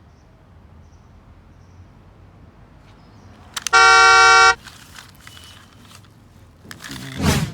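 A single loud car-horn honk, one steady electronic-sounding beep lasting under a second, about four seconds in. A short rushing noise follows near the end.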